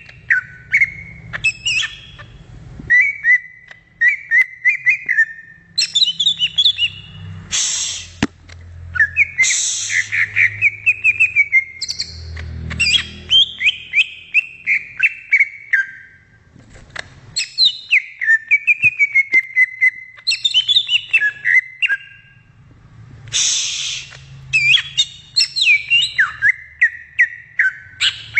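Cucak ijo (green leafbird) singing: a long run of quick, rapidly sweeping whistled phrases, mostly falling, with short pauses between them. A few loud harsh hissing notes break in, about a third of the way in and again near the end.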